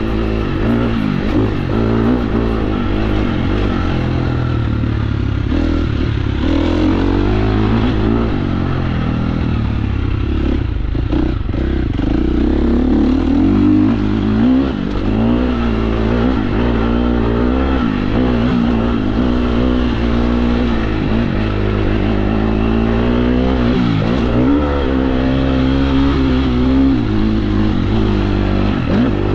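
KTM 350 SX-F dirt bike's single-cylinder four-stroke engine under way on the trail, its pitch rising and falling continuously as the throttle opens and closes.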